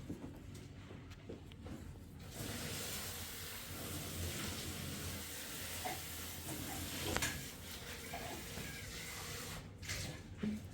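Steady hiss of water, with a few light knocks, the loudest about seven seconds in; the hiss starts about two seconds in and stops shortly before the end.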